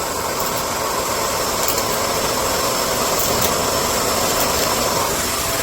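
Vacmaster UB0302E two-motor upright vacuum cleaner running steadily with its hose wand attached, sucking up small debris, with a few faint ticks.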